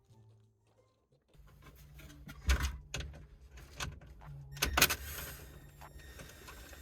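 Clanks, clicks and knocks from car parts and a car body being handled, the two loudest knocks about two and a half and five seconds in, over a low steady hum.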